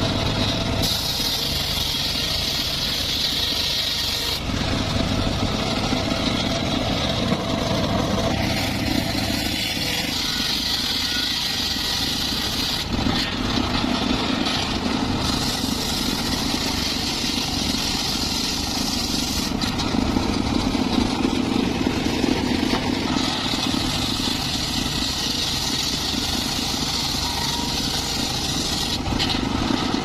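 Homemade circular saw rig running steadily while it cuts mahogany, its sound swelling with a high cutting hiss for a few seconds at a time and easing back between cuts.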